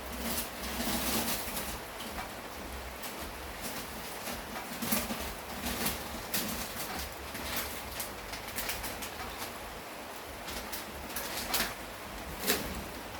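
Steady rain with drops striking a surface, and a dove cooing in short low phrases near the start and again about five to six and a half seconds in.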